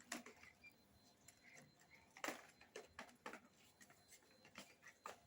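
Faint, scattered clicks and taps from a fishing reel and line being handled and fitted, over a near-silent background.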